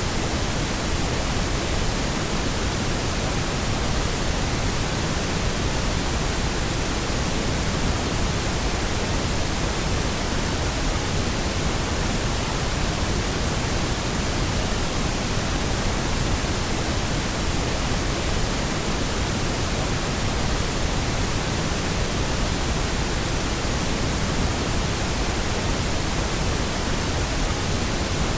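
Steady pink noise: an even, unchanging electronic hiss spread across all pitches, weighted toward the low end, with no breaks or events.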